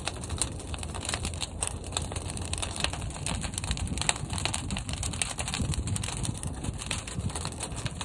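Fire burning in a large kiln: a steady low rumble of flame with many irregular crackles and pops throughout.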